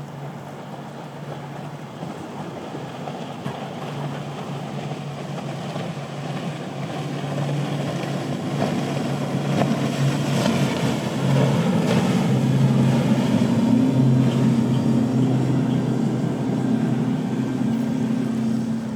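Motorboat engines running steadily and growing louder as the boat draws close, loudest a little past the middle, over wind and water noise.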